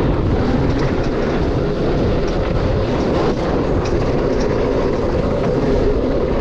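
Dirt bike engine running steadily while riding a trail, with wind noise on the microphone and a few light knocks.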